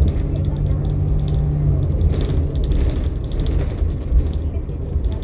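New Flyer XN60 articulated bus under way, its Cummins-Westport ISL-G natural-gas engine and Allison transmission giving a steady low drone, with a steady whine that stops a little under two seconds in. Interior fittings rattle and jingle, with two short bursts of hissing rattle around two and three seconds in.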